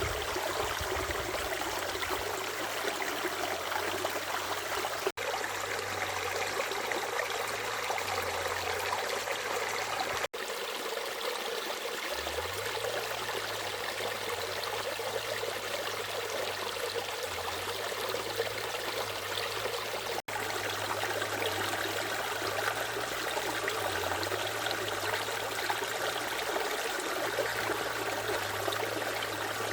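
Water flowing in a stream, a steady rushing and trickling that cuts out for an instant three times.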